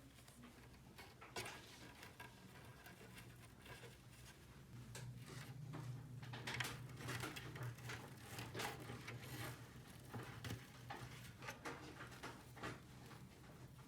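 Faint, irregular light clicks and taps, like small plastic toy pieces being handled and set down, over a low steady hum.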